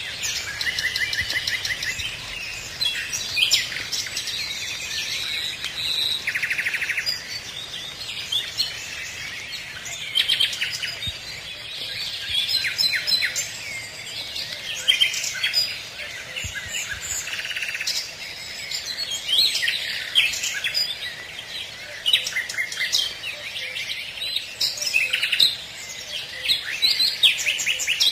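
Several songbirds singing and calling at once, a dense, overlapping chorus of chirps, whistles and rapid trills.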